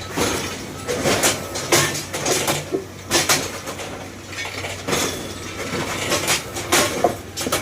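Irregular metallic clanks and knocks of railway repair work, about a dozen sharp strokes at uneven intervals over a faint steady hum.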